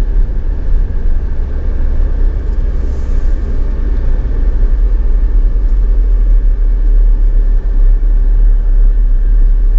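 Jeep Wrangler Rubicon driving on pavement, heard from inside the cab: a steady low rumble of engine and tyre noise.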